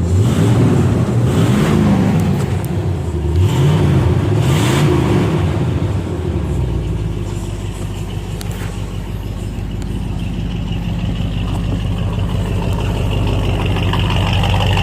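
Chevrolet small-block 350 V8, bored .040 over, in a 1984 C10 pickup, revved a few times, then settling into a steady idle about six seconds in.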